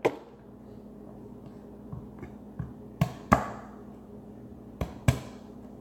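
Knife knocking on a cutting board while garlic is prepared: about eight sharp, irregular strikes with pauses between them, over a low steady hum.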